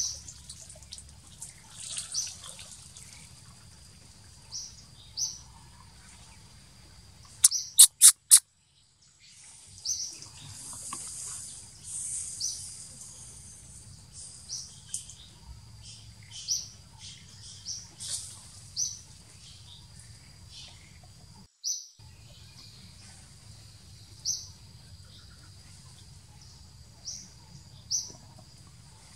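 Forest birds chirping: short, high calls repeated every second or two over a faint steady high tone. About eight seconds in, four sharp clicks come in quick succession, followed by a second of silence.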